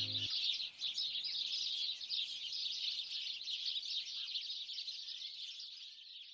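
A flock of small birds chirping and twittering in a dense, unbroken chorus, fading out near the end.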